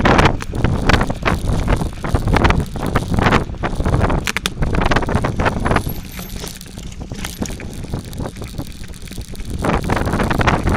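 Bicycle rolling fast down a rough dirt forest trail: tyre noise and rattling knocks over bumps, with heavy wind buffeting on the microphone. It goes quieter for a few seconds past the middle, then picks up again.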